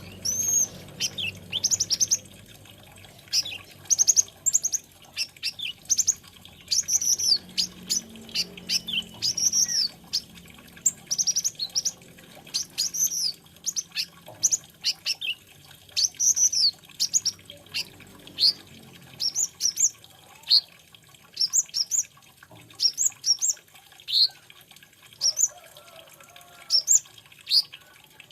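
A sunbird, the 'kolibri ninja' or konin, singing. Its song is a quick run of high, sharp chirps and trills that come in short bursts with brief pauses between them.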